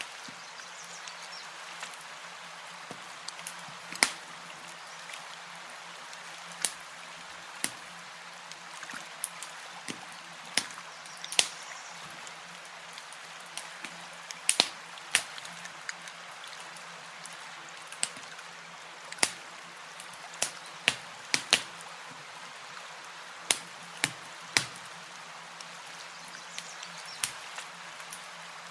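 Campfire crackling: sharp, irregular pops and snaps, a couple of seconds apart or closer, over a steady hiss.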